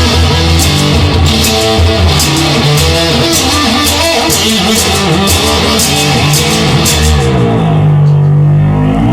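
Instrumental rock music: electric guitar and bass over drums. Near the end the drums drop out, leaving a held low bass note that slides down and back up.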